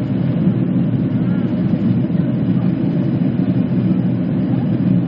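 Airliner cabin noise during takeoff: a steady, loud low rumble of the jet engines and airflow, heard from inside the passenger cabin.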